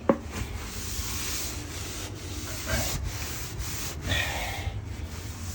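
Paper towels scrubbing a grimy surface wet with degreaser: a steady rough rubbing, with a sharp click right at the start.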